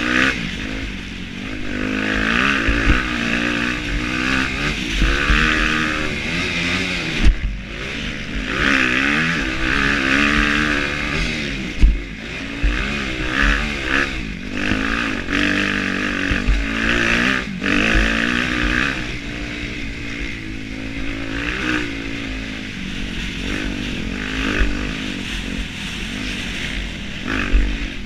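Motocross bike engine revving up and down again and again as it is ridden hard round a track, with brief sharp thuds about 7 and 12 seconds in.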